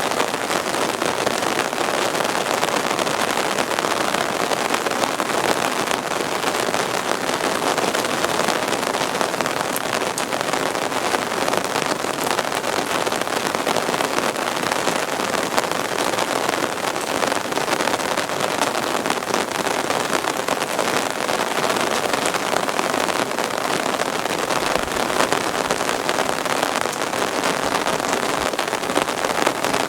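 Heavy rain falling steadily, a dense, even wash of drops striking surfaces.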